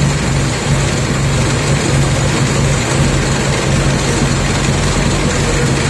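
1927 Fordson tractor's four-cylinder engine running steadily and loudly, with a low, even throb.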